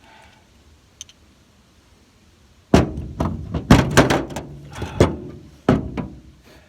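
A run of about half a dozen sharp thuds and knocks with some clatter between them. They start after a quiet couple of seconds and die away near the end.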